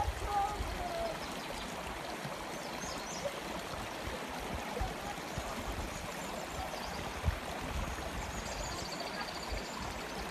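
Steady rushing of flowing water, like a stream, with a short high trill about nine seconds in.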